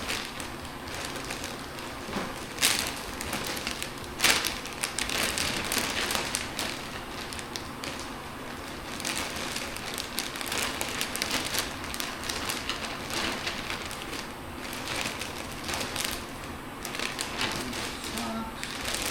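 Plastic vacuum storage bag crinkling and rustling as clothes are stuffed into it by hand, with a few sharper crackles, the loudest about three and four seconds in.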